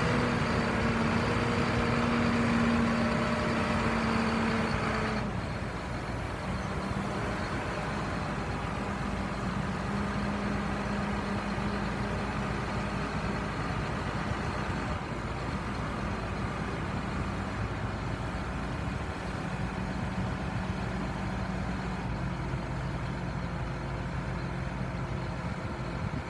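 John Deere 6195R tractor's six-cylinder diesel engine running steadily; about five seconds in its pitch drops a little and it gets quieter, then it runs on evenly at the lower speed.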